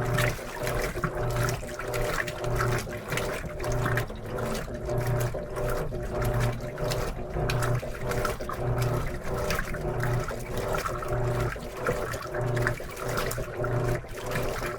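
Top-load washing machine (Electrolux LM13Q) agitating its rinse water: the motor hums in regular pulses, roughly one every three-quarters of a second, as the agitator swings back and forth, over steady water sloshing.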